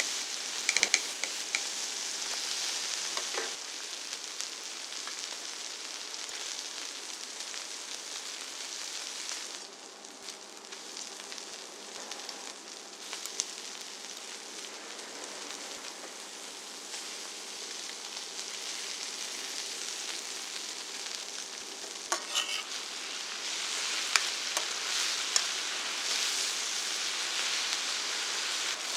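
Black-pork belly sizzling on a large iron griddle, a steady frying hiss with occasional sharp clicks. It dies down somewhat in the middle and grows louder again near the end.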